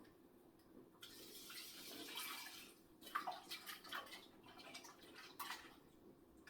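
Water running from a tap for about two seconds, starting about a second in, then a series of splashes and knocks as raw meat is washed by hand.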